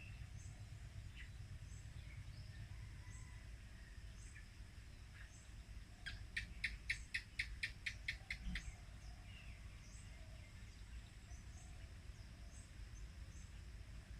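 Wild birds singing faintly: short high chirps repeated about once a second, and about six seconds in a fast run of repeated notes lasting about two and a half seconds, over a low steady rumble.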